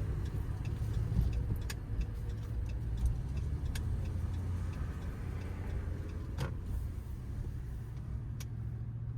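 Cabin sound of a 2010 Ram 1500's 5.7-litre Hemi V8 driving, a steady low rumble with a few light clicks over it. The engine has a multiple-cylinder misfire and is in limp-home mode, running like a pig.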